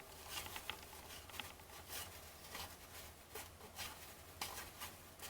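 Baseball trading cards being flipped through by hand: faint, irregular soft flicks and slides of card stock, about two a second, over a low steady hum.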